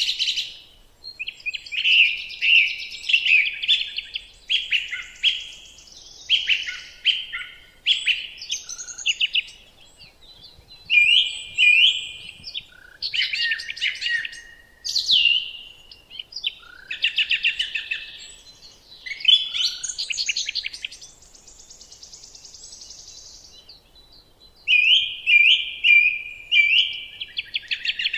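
Songbirds singing: repeated phrases of quick, high chirps and trills, each a second or two long with short pauses between, and one longer buzzy high note about three quarters of the way through.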